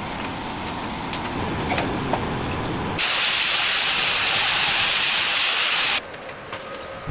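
A low rumbling noise, then a loud, steady spraying hiss that starts suddenly about three seconds in and cuts off just as suddenly three seconds later.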